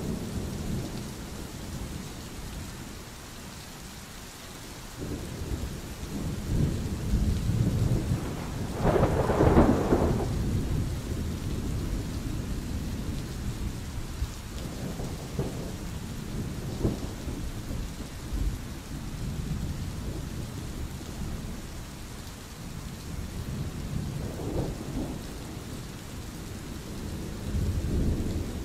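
Steady rain with rolling thunder rumbling on and off, the loudest peal swelling about nine seconds in and another rumble near the end.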